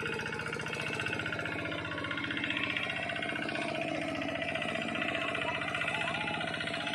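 Hand tractor's engine running steadily with a rapid, even chugging while it plows a rice paddy.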